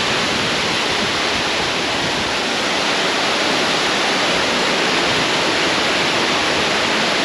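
Cam Ly Waterfall pouring: a steady, loud rush of falling water, heavy in the ears.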